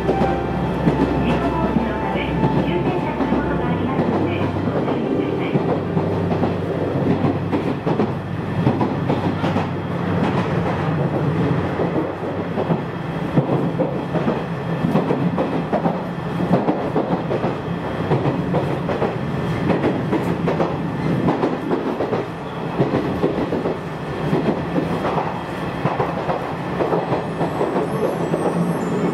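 Electric commuter train running along the line, heard from inside the carriage: a steady rolling rumble of wheels on rail, with a constant run of rapid clicks. A low hum drops away about four seconds in.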